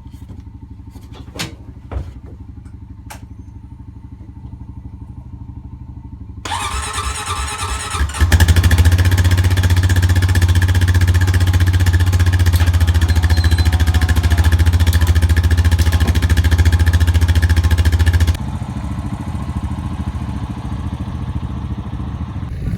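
Honda Rancher ATV engine idling with a few light clicks, then revving up about six seconds in and running hard and steady under load through deep snow for about ten seconds before easing back to a lower steady run near the end.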